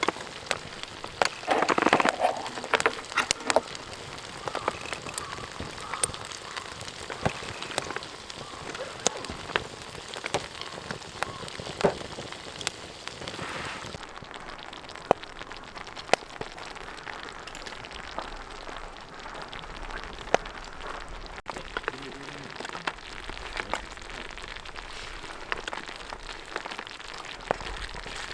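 Campfire wood crackling and popping: irregular sharp snaps over a steady hiss, with a brief louder rush of noise about two seconds in.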